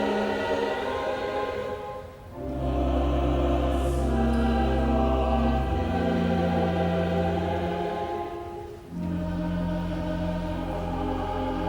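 A choir singing slow, held chords over steady low sustained notes. It breaks off briefly between phrases twice, about two seconds in and again near nine seconds.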